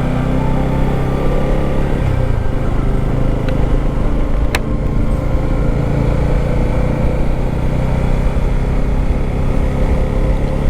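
Motorcycle engine running steadily with a low rumble, and a single sharp click about four and a half seconds in.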